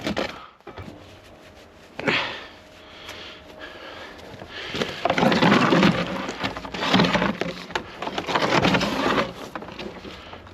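Wood being worked: rough cracking and scraping in several bursts of about a second each, the loudest in the middle, after a sharp knock about two seconds in.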